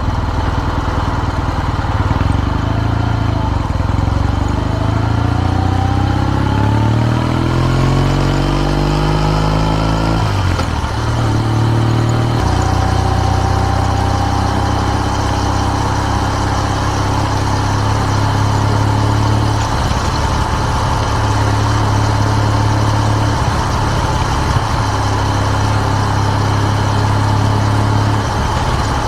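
Kawasaki W650's air-cooled parallel-twin exhaust through an R's Gear Wyvan Classic muffler, rising steadily in pitch as the bike accelerates, then shifting up about ten seconds in and running at a steady cruise.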